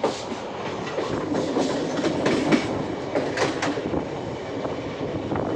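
Train running along the track: a steady rumble with irregular clattering of wheels over rail joints, the clatter clearest in the middle.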